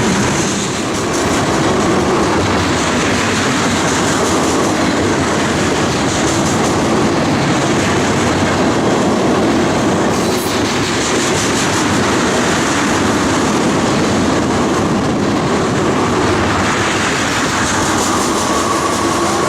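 Train cars rolling past close by: a steady, loud rush of steel wheels on rail with clickety-clack over the joints.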